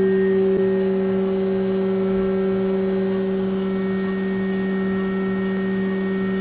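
CNC milling machine running a part: a steady hum with an even low tone as the cutter chips away metal.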